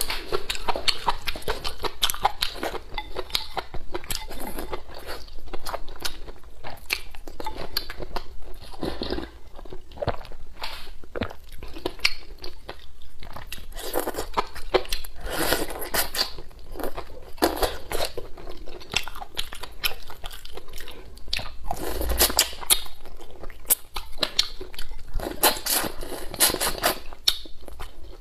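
A person chewing and biting stewed chicken close to a clip-on microphone: a dense run of wet mouth clicks and smacks, thickest about halfway through and again near the end.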